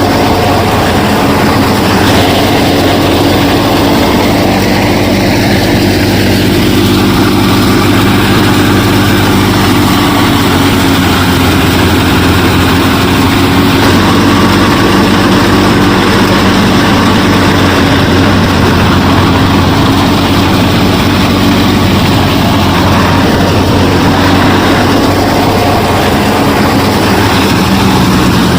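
A motor running steadily at constant speed, a loud, even drone with a low hum and a noisy mechanical rush over it, unchanging throughout.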